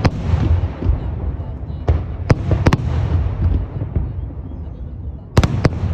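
Fireworks shells bursting: sharp bangs about two seconds in and a few more near the end, with a low rumble of booms in between.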